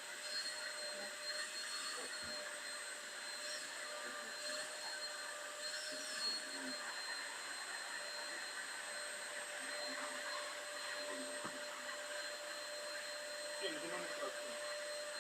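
Vacuum cleaner running steadily with a constant whine, its small brush nozzle being drawn over a cat's fur.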